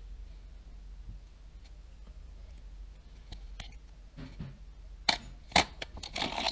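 Small metal parts and tools of a Daiwa Tatula 100 TWS baitcasting reel being handled by hand on a work surface: a few sharp clicks about five seconds in, then a short clatter of clicks near the end, over a faint low hum.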